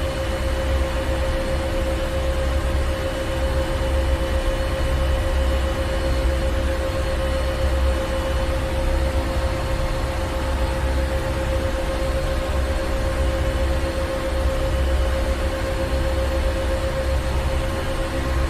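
Ship's engine room machinery running steadily: a deep rumble that swells and fades unevenly under a constant hum and hiss.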